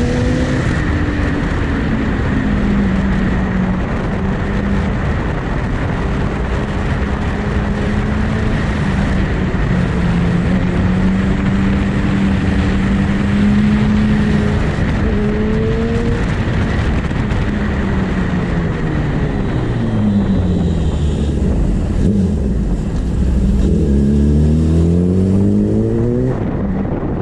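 Superbike engine running at a steady high pitch under a dense rushing noise, then falling in pitch as the bike slows about two-thirds through, and climbing again as it accelerates near the end.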